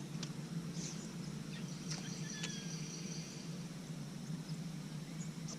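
Quiet riverside ambience: a steady low hum under faint, steady high insect buzzing, with a few short bird chirps and light ticks.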